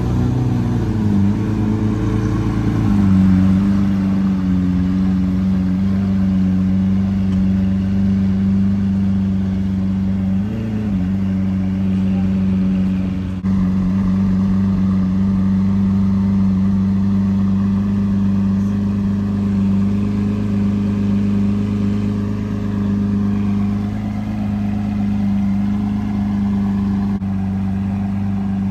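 Lamborghini Aventador's V12 running at idle, its pitch wavering for the first few seconds as the car comes to a stop, then holding steady, with one short rise in pitch about ten seconds in.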